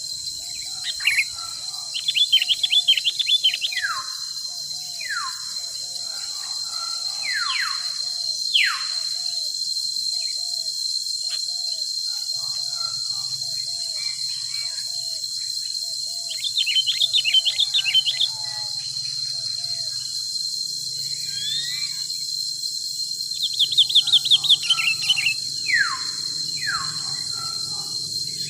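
Forest ambience: several birds calling over a steady high insect drone. One repeats short notes about twice a second, quick trilling bursts come three times, and falling whistles come in between.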